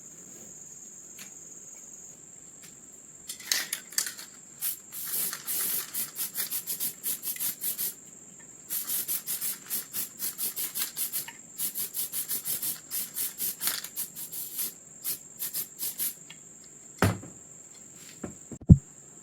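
Hand-worked abrasive rubbing on a gun part: runs of quick back-and-forth strokes, about three a second, with a short pause in the middle. Two sharp knocks come near the end.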